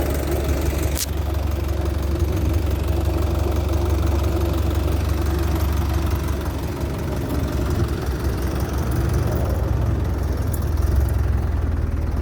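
A large engine running at a steady idle, a deep continuous rumble, with one sharp click about a second in.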